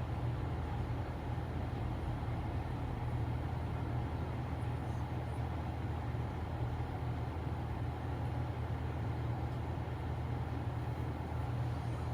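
Steady low rumble of a car being driven, heard from inside the cabin: engine and road noise with no single event standing out.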